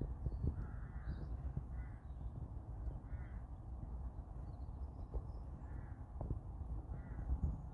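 A bird giving a series of about six short, harsh calls, irregularly spaced about a second apart, over a steady low rumble.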